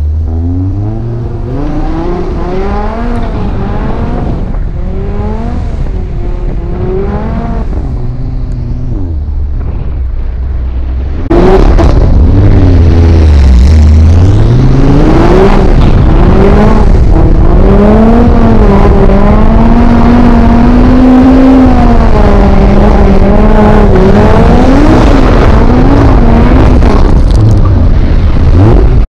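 Big-turbo Audi RS3's turbocharged five-cylinder engine revving up and down repeatedly under hard driving. About a third of the way in it becomes much louder.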